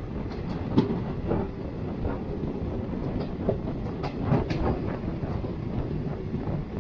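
Jan Shatabdi Express passenger train running along the track: a steady low rumble with several short, irregular knocks of the wheels over rail joints.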